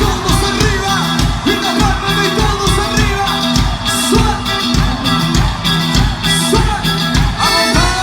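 Cuarteto band music playing an instrumental passage, with a steady, driving drum beat about twice a second.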